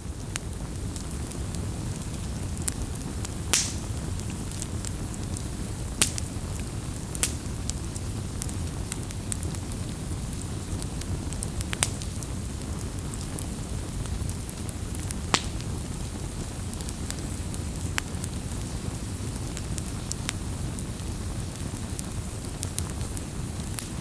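Campfire burning with a steady low rumble of flames and sharp, irregular crackles and pops of burning wood, a few of them louder, the loudest about three and a half seconds in.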